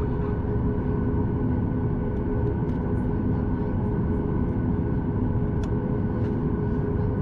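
Cabin noise inside a Boeing 737 MAX 8 with CFM LEAP-1B engines: a steady drone of engine and airflow, with a few held tones over it and faint scattered ticks.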